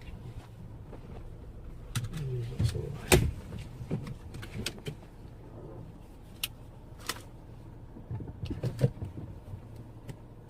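Low steady hum of a car with scattered clicks and knocks; the loudest knock comes about three seconds in.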